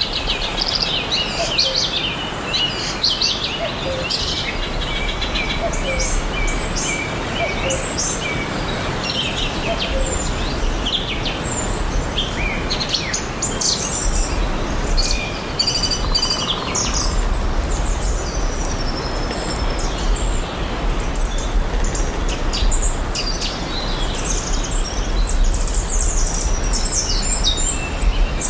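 Several songbirds chirping and singing, with many short chirps and trills overlapping, over a steady background hiss.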